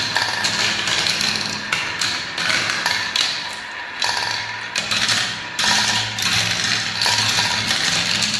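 Many marbles rolling and clattering down a spiral marble-run track, a dense stream of rapid clicks and rattles that eases off a little around the middle.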